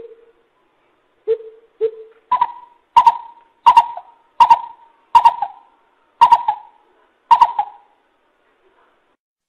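Coucal (bubut) calling in hollow hoots: three deep, spaced notes, then a run of seven higher, louder hoots about one every three-quarters of a second.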